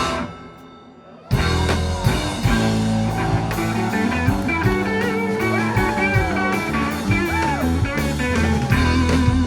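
Live rock band, jam-band style: the music drops out briefly at the start, then the full band comes back in about a second later. Drums, bass and electric guitar play, with bent guitar notes.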